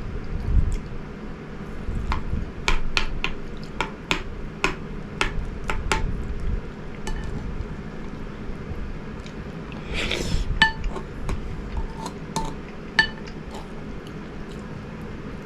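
Eating utensil repeatedly clinking and scraping against a ceramic bowl while eating a rice dish. The strikes come in a quick run early on, then more sparsely, some of them leaving a short ring from the dish, with a brief rustle about ten seconds in.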